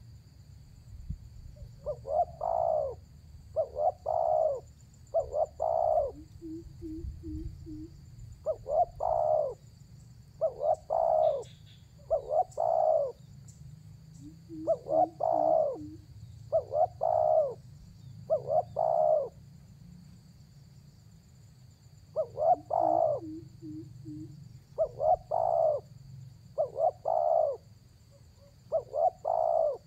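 Spotted dove cooing in repeated phrases of two to four coos, about one phrase a second, with pauses. Three times, a short run of four or five quick, lower notes comes between the phrases. This is the full calling song used to lure wild doves.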